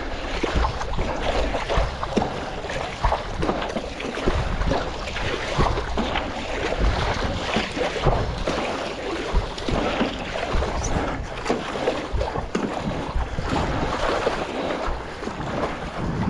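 Wind buffeting the microphone over water splashing and sloshing around a stand-up paddleboard on choppy sea.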